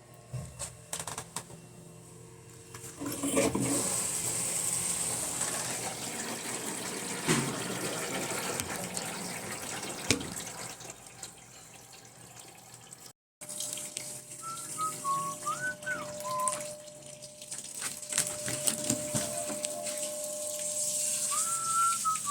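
Water running in a steady rush, with scattered clicks. After a short break, a few short warbling calls of a bird.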